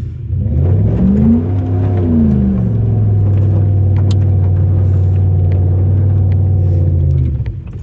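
Straight-piped Jeep exhaust: the engine revs up and back down once, then holds a steady drone for about four and a half seconds before dropping off near the end.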